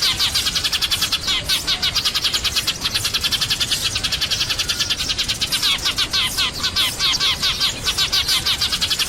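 A flock of sparrows chirping: a dense, unbroken stream of short, high chirps, many overlapping, about eight to ten a second.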